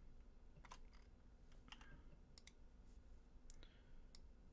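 Faint, scattered clicks of a computer keyboard and mouse, about half a dozen single clicks spread over a few seconds, over a faint low hum.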